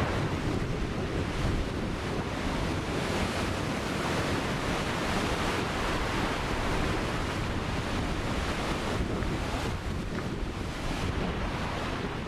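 Ocean surf: waves breaking and washing onto the shore in a steady rush, swelling and easing slightly, with wind on the microphone.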